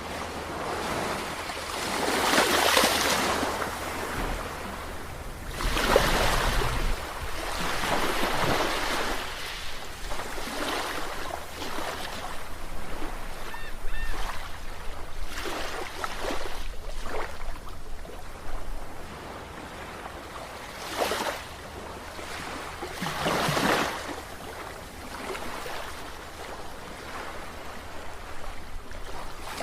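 Sea waves washing in and breaking, a rushing hiss that swells and fades every few seconds, with the biggest surges early on.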